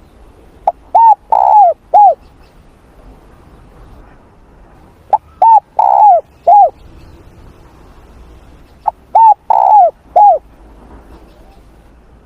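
Spotted dove cooing close to the microphone: three phrases about four seconds apart, each a quick run of four notes with the third note the longest.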